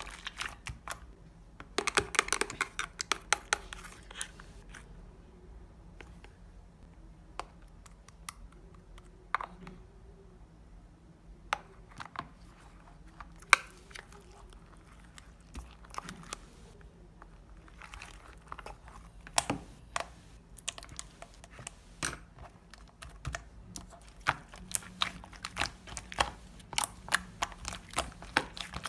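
Irregular crinkling and crackling with scattered sharp clicks, as of something being handled close to the microphone. It comes in dense runs about two seconds in and again near the end, with sparse ticks in between.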